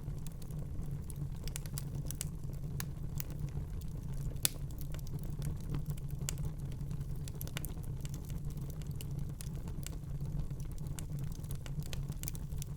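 Fire crackling in a fireplace: scattered sharp pops and snaps over a steady low rumble, with one louder pop about four and a half seconds in.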